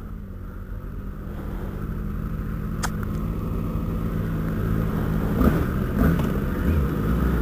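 Inline-four sport-bike engines running, a steady low engine hum that slowly grows louder. A single sharp click about three seconds in.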